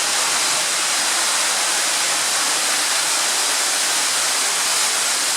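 Underground waterfall inside a tunnel: a loud, steady rush of falling water.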